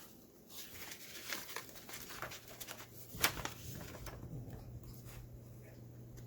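Paper rustling and light handling clicks from a handmade paper journal being leafed through and its envelope, tag and papers handled, with one sharper click about three seconds in. A faint steady low hum runs underneath.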